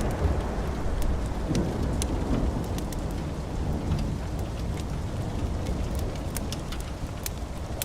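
Steady rain with a deep thunder rumble dying away in the first second or so, and scattered sharp ticks and crackles over it.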